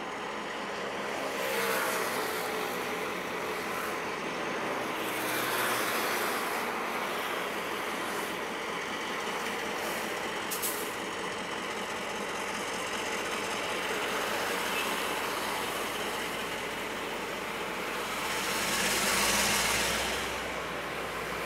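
A train running on the tracks: a steady rush of wheel and rail noise that swells several times, loudest near the end, with one short sharp click partway through.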